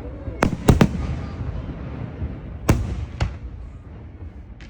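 Fireworks shells exploding: three sharp bangs within the first second, then two more close together about three seconds in, each trailing off in an echoing rumble.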